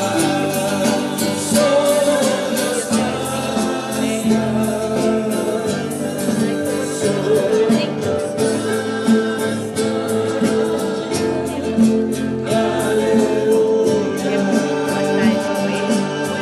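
Religious song sung by a group with guitar accompaniment, going on steadily throughout.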